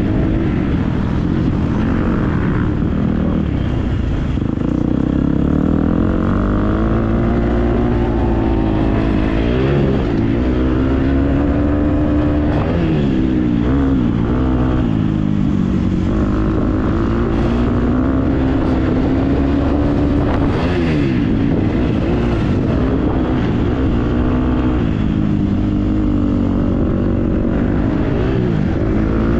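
Motocross bike engine being ridden hard, its pitch climbing and dropping again and again as the throttle is opened and rolled off, with a constant low rumble underneath.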